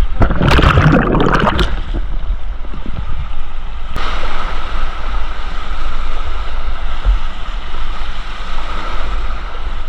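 Steady rush of whitewater close to a kayak-mounted point-of-view microphone, with low wind rumble on the mic. A louder burst of splashing comes near the start, and there is a single sharp click about four seconds in.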